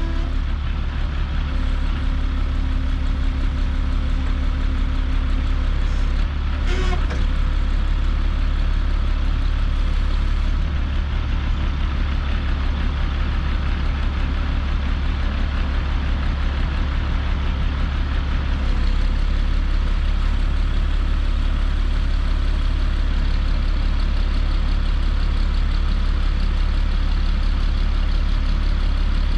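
Log truck's engine running steadily while logs are loaded with its log loader, with a brief knock about six seconds in.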